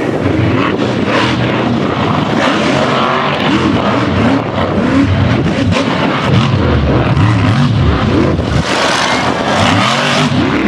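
Monster truck engine running loud and revving hard, its pitch climbing and dropping again and again.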